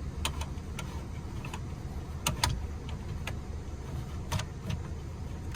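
Scattered light clicks and knocks from handling the car bed platform's support frame and adjustable columns, over a steady low hum.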